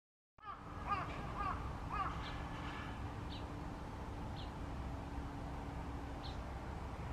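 Birds calling: about four quick, harsh, crow-like calls in the first two seconds, then scattered thin high call notes every second or so over a steady low background rumble. The sound cuts in abruptly a moment in.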